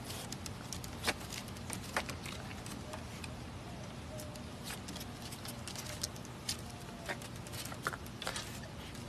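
Scattered light clicks and taps of a raccoon and a small dog moving on wooden deck boards, over a steady outdoor background hum, with a few faint, thin, wavering squeaks in the middle.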